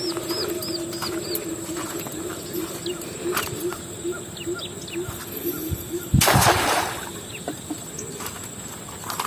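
Birds calling: a low hooting call repeated about three times a second, with a run of high chirps at the start, over a steady high hum. Just after six seconds a short, loud rushing noise, the loudest sound, cuts in for under a second.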